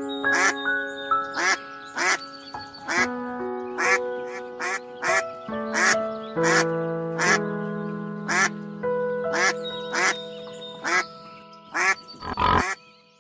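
Ducks quacking, about two short quacks a second, over background music of long held notes. A louder call comes near the end.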